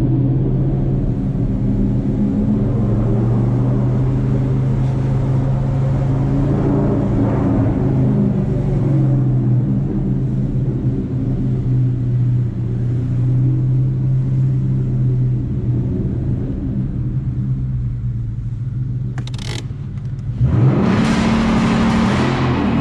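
Ford Mustang GT's 5.0-litre V8 running steadily at low revs, then getting suddenly louder and brighter near the end.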